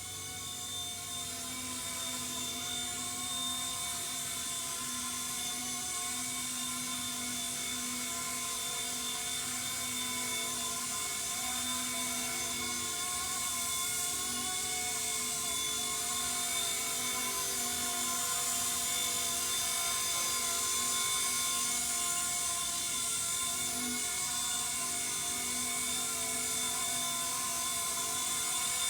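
Small electric RC scale helicopter (MD500-bodied C-189) in flight: the steady whine of its motor and gears, with the rotor's hum and hiss, its pitch shifting slightly as the pilot flies it.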